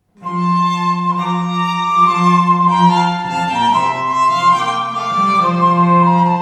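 Instrumental three-part setting of a Greek folk melody, played on violin-like bowed strings, several parts holding notes together and moving in steps. It starts just after the beginning.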